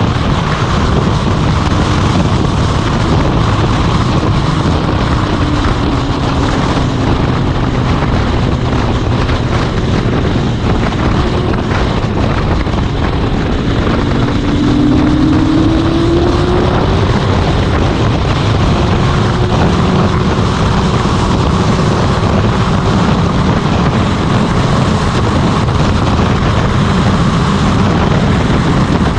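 Motorcycle on the road: the engine runs steadily under heavy wind rush on the microphone, with its pitch rising a little about halfway through.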